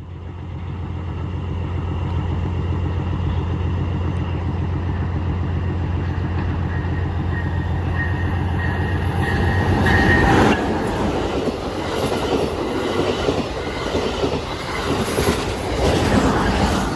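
Amtrak Hiawatha passenger train going by: the diesel locomotive's steady low drone builds and holds, is loudest about ten seconds in, and then gives way to the rolling rumble and clickety-clack of the passenger cars passing.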